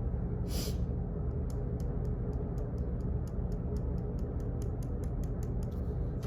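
Office ambience: a steady low hum, a brief rustle about half a second in, then a run of quick, light, evenly spaced clicks, about four or five a second, that stops shortly before the end.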